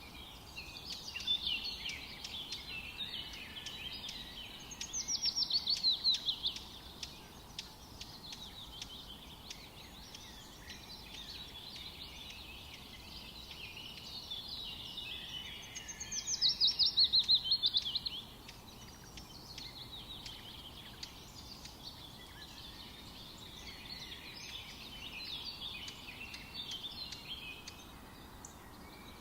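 Songbirds chirping and singing in a forest, a chorus of many overlapping calls. Twice, about five seconds in and again about sixteen seconds in, one bird sings louder: a quick run of notes falling in pitch, lasting about two seconds.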